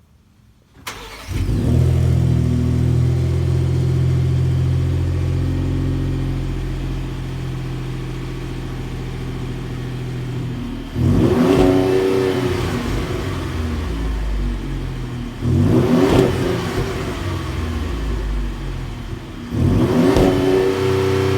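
2018 Ford F-150 Raptor's twin-turbo 3.5-litre EcoBoost V6 starting about a second in, then idling through its exhaust, the idle easing lower. It is then revved three times, each blip rising and falling in pitch.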